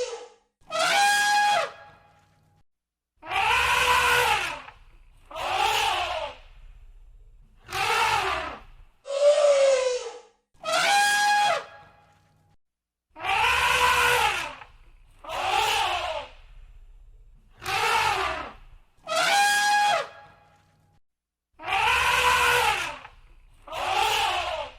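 Elephant trumpeting: a run of short, loud trumpet calls, each about a second long, rising then falling in pitch, about one every two seconds with brief silences between.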